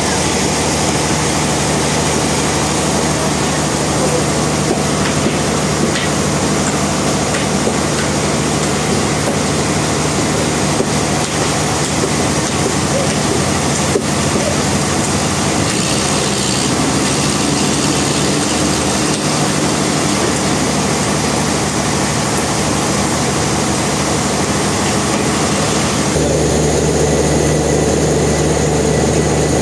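Sawmill machinery running steadily: a continuous engine-like hum with noise over it, changing in character about 26 seconds in.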